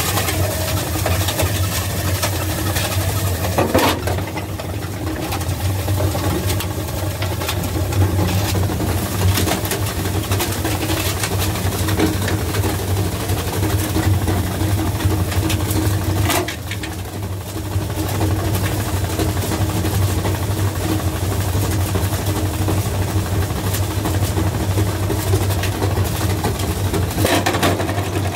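Washing machine running hard: a steady low motor hum with continuous rattling and knocking, easing briefly twice.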